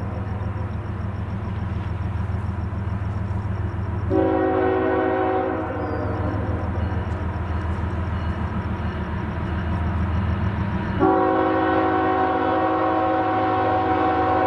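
Diesel locomotive's multi-chime air horn sounding a chord of several notes over a steady engine rumble. One blast ends right at the start, a short blast comes about four seconds in, and a long blast starts about eleven seconds in and runs on: the short-then-long close of a grade-crossing horn signal.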